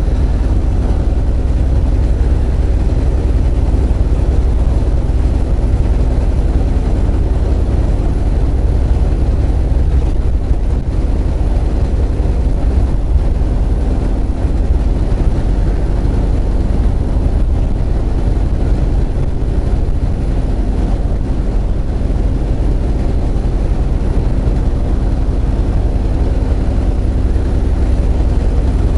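Semi truck's diesel engine running steadily, heard from inside the cab while the truck is driving: a constant low hum with no changes.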